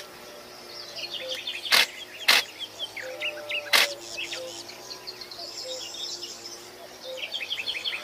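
Songbirds chirping and twittering in quick, high, overlapping notes. Three loud sharp clicks cut in, at about two, two and a half and four seconds in.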